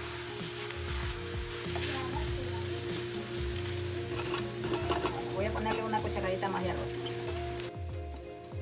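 Rice, shredded chicken and vegetables sizzling in a stainless steel pan while being stirred with a spatula; the sizzle drops away abruptly near the end. Background music with a repeating low bass line plays underneath.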